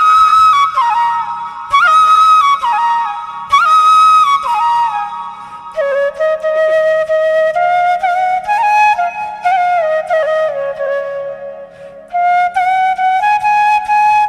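Background music: a flute plays a slow, ornamented melody in short phrases over a soft low accompaniment. The line drops to a lower register about six seconds in and pauses briefly near the end before going on.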